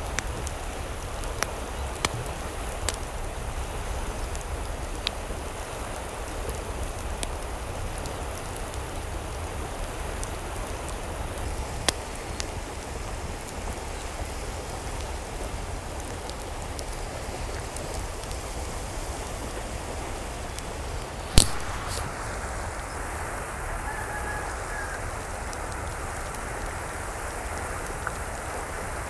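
Steady rain falling, an even hiss with scattered sharp drips and ticks. A single loud sharp click about three-quarters of the way through.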